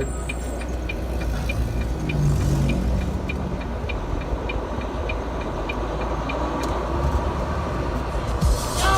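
Cab-interior sound of a Volvo VNL 780 semi truck on the move: steady diesel engine and road rumble, with a light, even ticking about three times a second.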